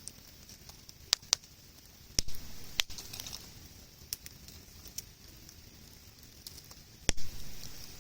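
Wood campfire crackling, with about five sharp pops over a steady hiss; the loudest pop comes about seven seconds in.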